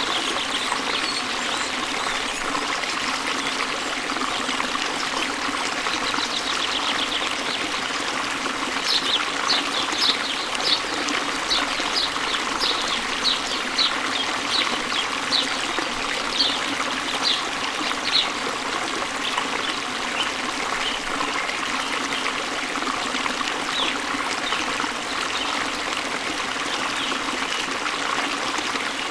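Stream water babbling steadily over stones. Near the middle a bird gives a run of short, high chirps, roughly one or two a second, for about ten seconds, with a few fainter chirps afterwards.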